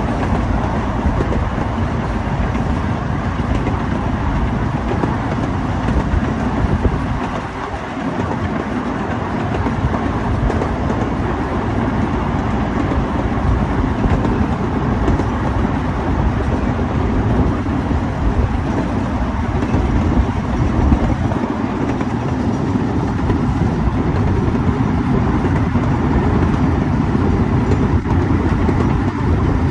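Cars of a small amusement-park railway rolling along the track: a steady low rumble of wheels on rails, with a brief dip about eight seconds in.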